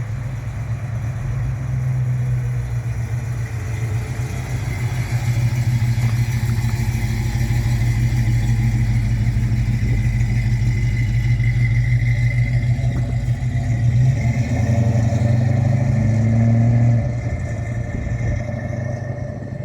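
A car engine running steadily, close by, its pitch shifting a little about fourteen seconds in and dropping back near the end.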